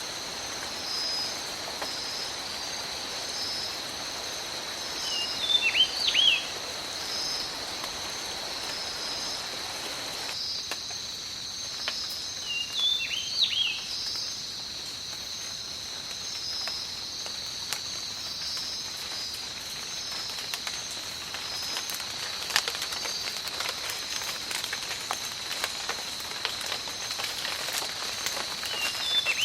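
Rain falling in a tropical forest, thinning about a third of the way in to lighter rain with separate drips. Under it runs a steady high insect drone, and a bird gives short sweeping calls twice, then again at the end.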